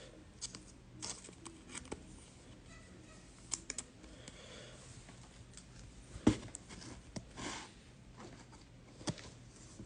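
Trading cards being handled: scattered soft clicks and taps as cards are shuffled and flipped, with one sharper tap a little past the middle.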